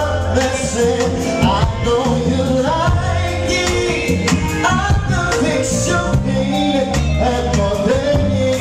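Live R&B song: a male lead voice singing melodic lines over a band with drums and bass.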